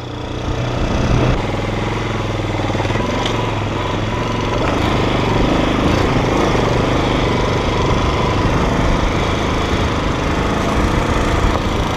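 Motorcycle engine running steadily as the bike rides up a rocky dirt track.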